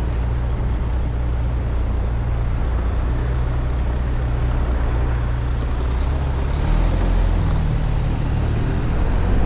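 Steady city traffic and road noise heard while riding an electric motorcycle: a continuous low rumble of nearby vehicles and wind, shifting in pitch about seven seconds in.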